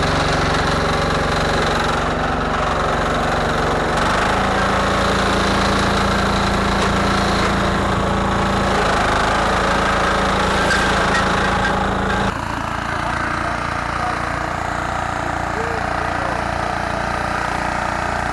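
Garden tractor engine running steadily under load. Its note steps up about four seconds in, and the sound drops abruptly and gets quieter about twelve seconds in.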